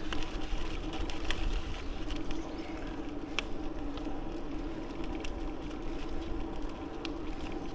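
A bicycle riding on a paved path: wind rumble on the mic under a steady hum from the tyres and drivetrain, with a few light clicks.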